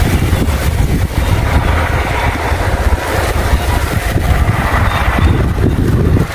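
Gusting wind buffeting the microphone over the steady rush of water pouring through a dam spillway.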